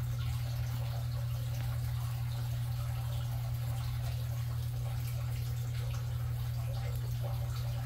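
A steady low hum with faint water dripping and trickling over it.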